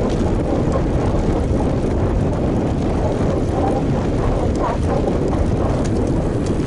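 Steady low rumble of wind buffeting an action camera's microphone while riding a road bike at speed.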